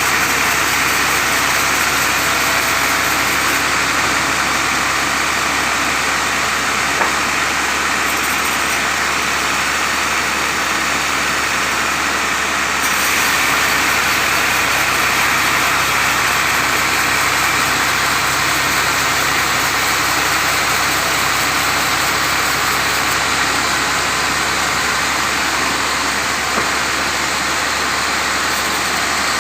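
Sawmill saw running steadily through mango wood over the steady hum of its drive engine, with a slight rise in level about halfway through.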